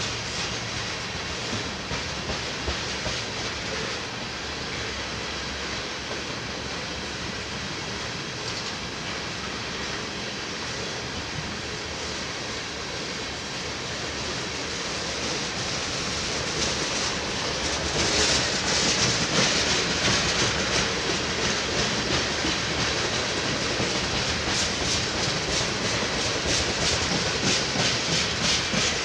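A train rolling past on the rails, its wheels clicking steadily over the rail joints. The sound grows louder about two-thirds of the way through.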